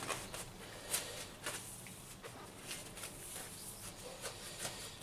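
Faint, scattered light clicks and rustles of hands at work under the bonnet, pulling the engine dipstick and wiping it off.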